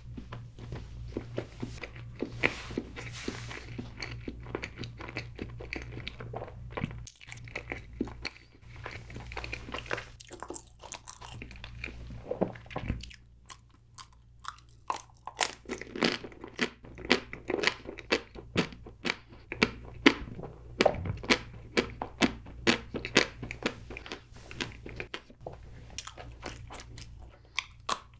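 Close-miked chewing of chocolate cake, then crisp crunching bites of chocolate with sharp crunches coming several times a second in the second half.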